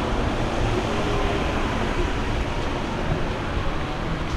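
Steady noise of a boat underway: a low engine hum mixed with rushing water and wind, with no break or change.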